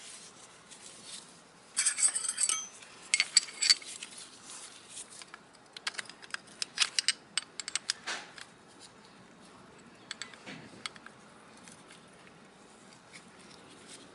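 Small metal tools and parts clinking and rattling as they are handled, in two busy spells of sharp ringing clinks with quieter handling between.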